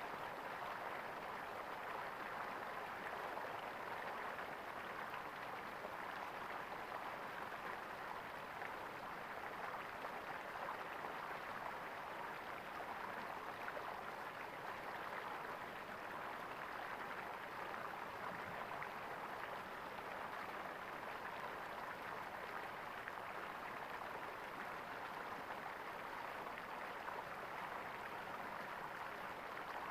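Flowing water gurgling steadily, an even rush with no breaks or changes.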